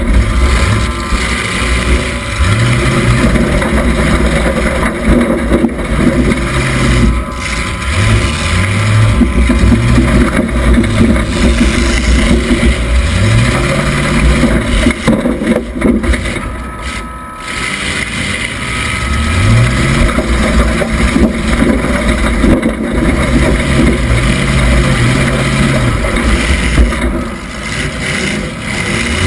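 A 1976 Oldsmobile Cutlass Supreme demolition derby car's engine, heard from inside the car, revving up and down over and over, each rev rising in pitch. A few sudden knocks from impacts fall through it, and there is wind on the microphone.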